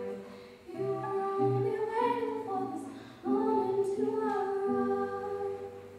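Solo female voice singing slow, sustained phrases, two long phrases with a short break about three seconds in.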